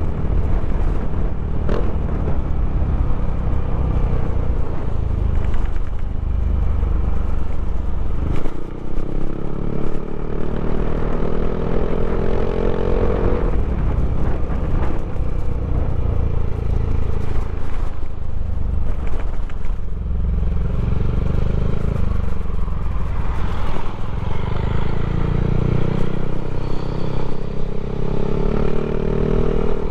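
Yamaha Aerox scooter with its engine bored and stroked to 200cc, running loud and steady. The engine pitch climbs over several seconds and drops back more than once as the throttle is opened and closed.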